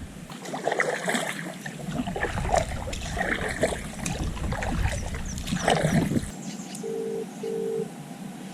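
Water splashing and trickling around a kayak, with irregular small splashes and drips. Near the end come two short beeps.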